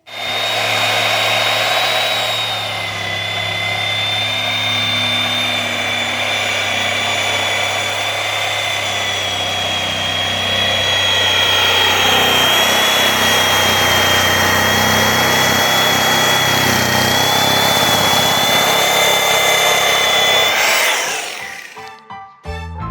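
Power saw running steadily with a high motor whine, cutting through the wooden play set, then winding down and stopping near the end.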